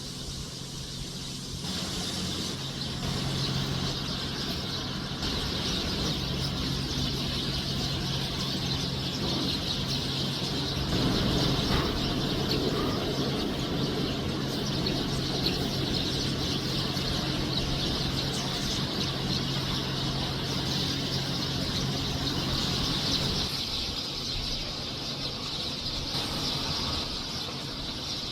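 A large flock of Eurasian tree sparrows chirping together in a dense, continuous chorus. Under it a steady low hum runs and stops about five seconds before the end.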